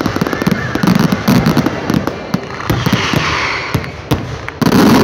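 Aerial fireworks shells bursting in rapid succession, a dense run of bangs and crackles with a louder burst near the end.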